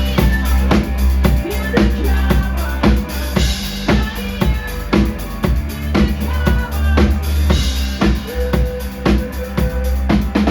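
Live rock band playing an instrumental passage: a loud drum kit keeps a steady beat with kick, snare and cymbals, over sustained low instrument tones.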